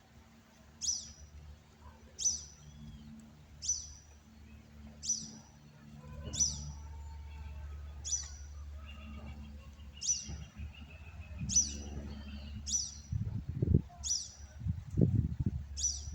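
A bird repeating a single short, high chirp about every second and a half, a dozen times in all. A few low thumps come in near the end.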